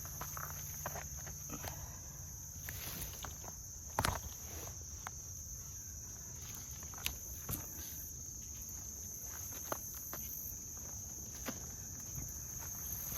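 Insects droning steadily in two high bands, under scattered scrapes, knocks and footsteps of a person scrambling up a creek bank, with the sharpest knock about four seconds in.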